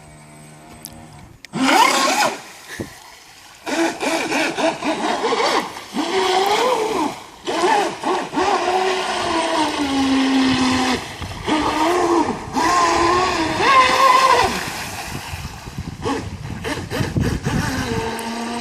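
Electric RC boat's motor whining in repeated throttle bursts, its pitch rising and falling with the throttle and broken by short pauses; it starts about a second and a half in and eases off near the end.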